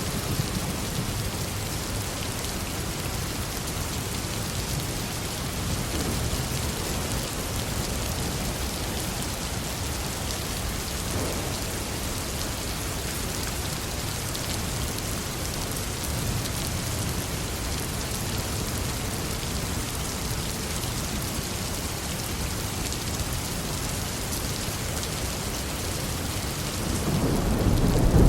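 Steady heavy rain falling on foliage and ground, with low thunder rumbling underneath; near the end a loud thunder rumble swells up.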